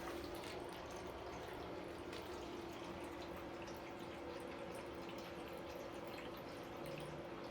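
Faint steady hum over quiet room noise, with a few soft ticks and no distinct event.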